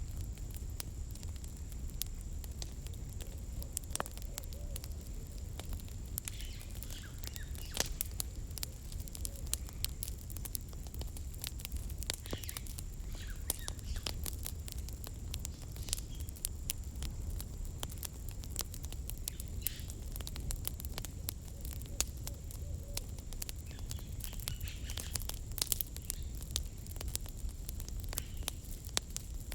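Campfire of burning firewood crackling, with frequent irregular sharp pops and snaps over a steady low rumble of the flames.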